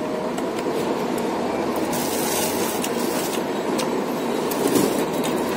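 A person eating with their fingers, with short chewing and mouth clicks scattered through, over a steady loud background rumble.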